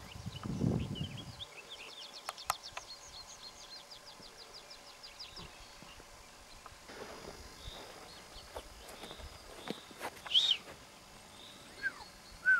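Wild songbirds singing: a rapid high trill of evenly repeated notes in the first few seconds, then scattered chirps and a few louder, falling calls near the end. A brief low noise sounds at the very start.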